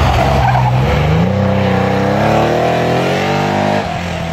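Rally car engine accelerating hard, its pitch climbing steadily for about three seconds, then breaking off abruptly near the end.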